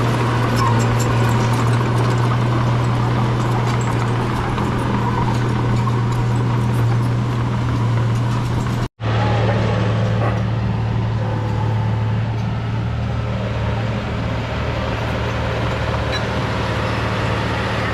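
Bulldozer's diesel engine running steadily under load, a constant low drone. The sound drops out for an instant about halfway through.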